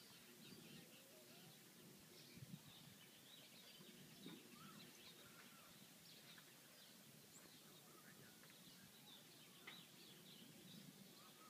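Near silence outdoors, with faint, scattered short bird chirps and calls over a low steady background hum.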